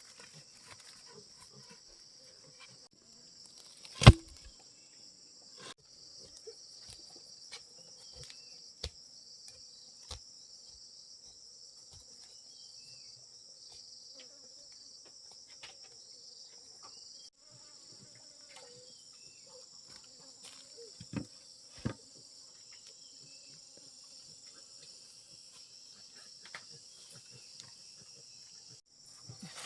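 Steady high-pitched chorus of insects, crickets or cicadas, with scattered light knocks and one sharp, loud knock about four seconds in.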